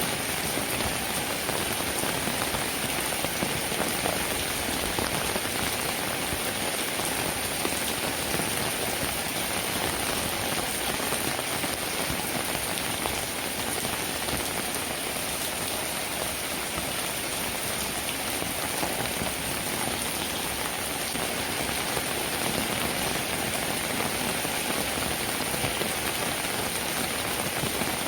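Steady rainfall: an even hiss of many drops that keeps the same strength throughout.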